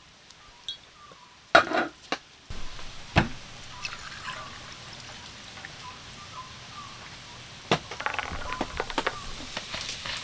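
Liquid being poured into a glass for a highball, with a few sharp clinks and knocks of glass and ice, over a steady hiss of rain.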